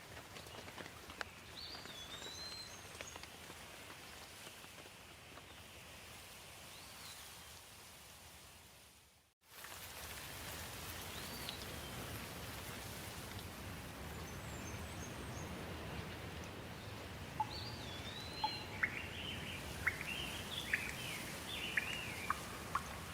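Steady light rain with birds chirping now and then. About nine seconds in, the sound fades to silence and straight back in. Near the end a bird calls in a quick run of sharp chirps.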